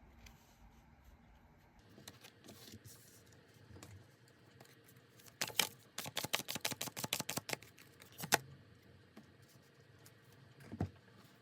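Tarot cards being handled and shuffled. A few soft clicks come first, then a rapid run of sharp card snaps lasting about three seconds, and one more tap near the end.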